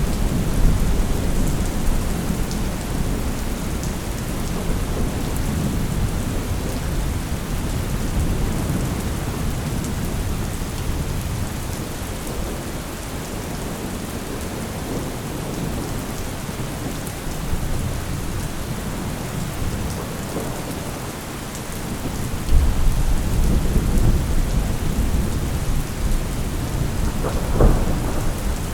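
Steady heavy rain with thunder rumbling. A deep roll of thunder sets in about three quarters of the way through, and a sharper thunderclap comes near the end.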